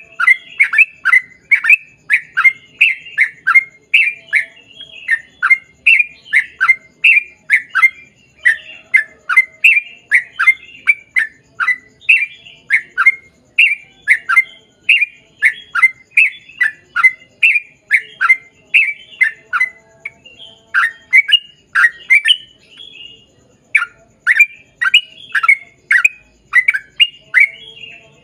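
Sooty-headed bulbul (trucuk) singing a long, unbroken run of short downward-sweeping notes, about two a second, with a short pause about three-quarters of the way through.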